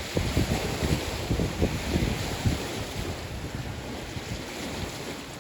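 Wind buffeting the microphone: irregular low rumbling gusts over a steady hiss, easing off after about three seconds.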